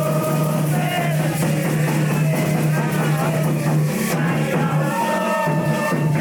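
Candomblé ritual song: several voices singing together over percussion and rattles, with a steady low hum underneath.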